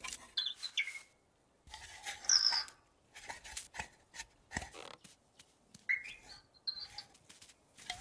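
Short, high chirps from a small cartoon bird mixed with soft, scattered tapping steps, sparse and quiet with brief silences between.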